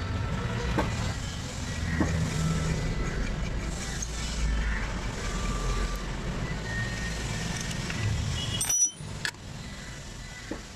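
A car's engine running with a steady low rumble, which stops abruptly near the end, followed by a few sharp clicks.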